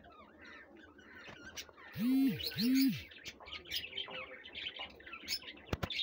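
Aviary birds chirping and whistling, with two loud, low, arched coo-like calls back to back about two seconds in, and a couple of sharp clicks near the end.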